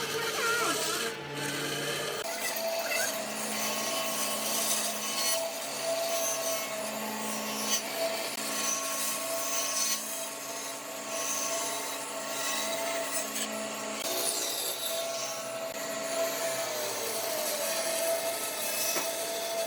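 A power tool working wood: a steady motor hum under a noisy scraping of the wood. The hum changes about two seconds in.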